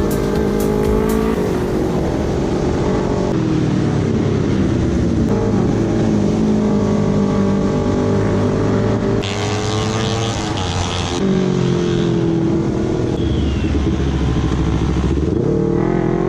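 Suzuki GSX150's single-cylinder engine revving through a loud exhaust, its pitch rising and falling again and again. A hiss joins it for about two seconds, around nine seconds in.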